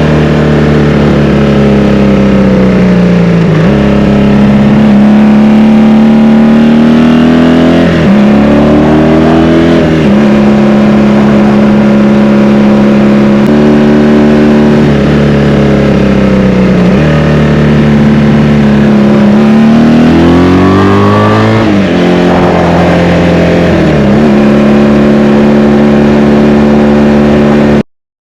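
1984 Honda VF500F Interceptor's V4 engine heard from onboard in a tunnel, holding steady revs with several rises and drops in pitch as the throttle is opened and closed and gears change. The sound cuts off suddenly near the end.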